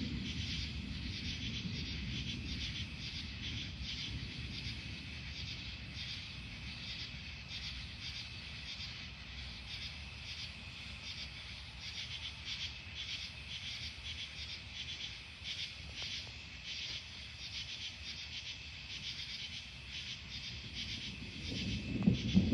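Night insects chirping in a steady, rhythmic pulse. A low thunder rumble dies away over the first few seconds, and a new, louder rumble of thunder starts near the end.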